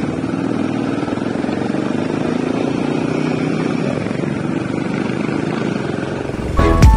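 Royal Enfield Himalayan's single-cylinder engine running steadily while riding at low speed. Background music with a beat comes in near the end.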